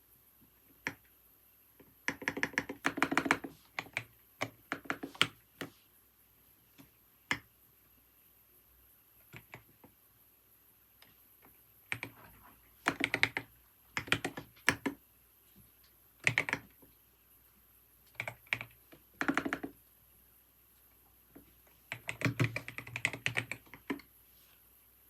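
Computer keyboard being typed on in short bursts of quick keystrokes, separated by pauses with a few single key presses between them.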